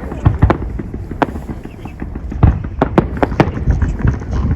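A fireworks display going off: an irregular string of sharp bangs and cracks, several a second, over a low rumble.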